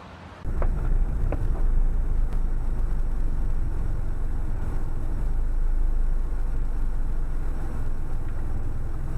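Steady low rumble of a moving car as heard by a dashcam, starting suddenly about half a second in, with a couple of light clicks soon after.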